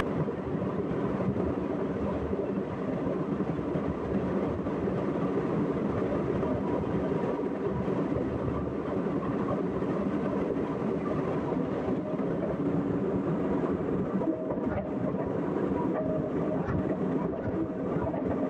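Excavator's diesel engine running steadily under load, with a few brief knocks in the later part.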